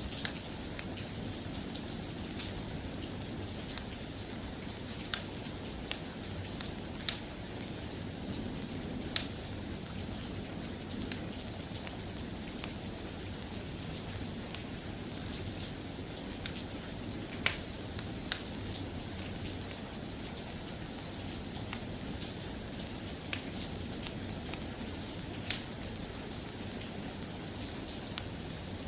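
Soft, steady rain falling, with scattered sharp ticks every second or two.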